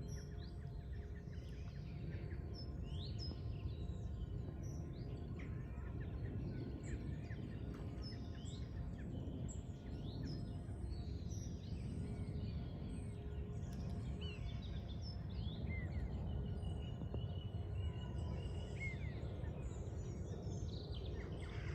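Many small birds chirping and calling, short quick notes scattered throughout, over a steady low rumble of outdoor background noise; about two-thirds of the way through, one note is held for a few seconds.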